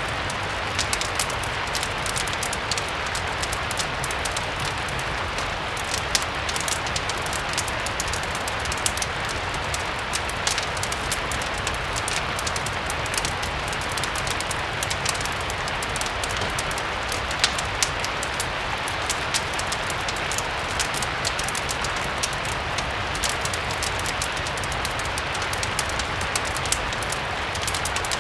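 Steady rain with scattered sharp crackles and pops from a fireplace fire.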